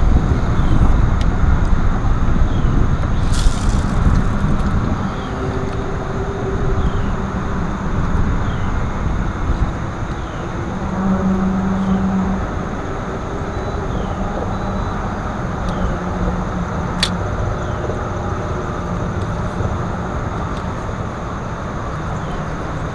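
Boat motor running with a steady low rumble, louder for the first few seconds and then settling, with wind noise on the microphone.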